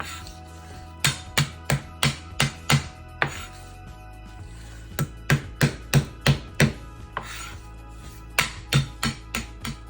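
Knife chopping on a cutting board in three quick runs of five or six strokes, about three a second, over quiet background music.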